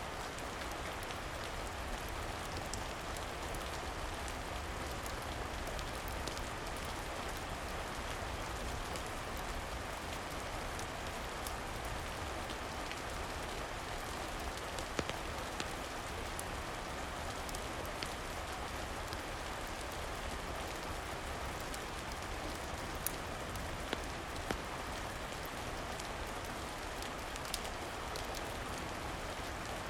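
Steady rain falling as an even hiss, with scattered sharp ticks and a few louder clicks now and then.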